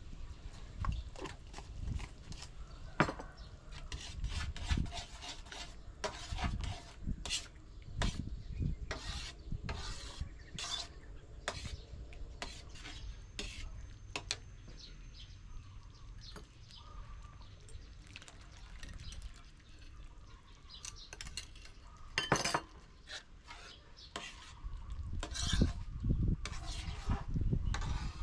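Kitchen utensils clinking, scraping and knocking irregularly against pots and dishes while food is handled and stirred.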